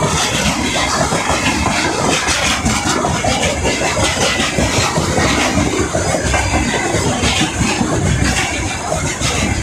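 Freight train hauled by a VL80S electric locomotive passing close by: a loud, steady rush of wheels on rail with dense, rapid clatter throughout.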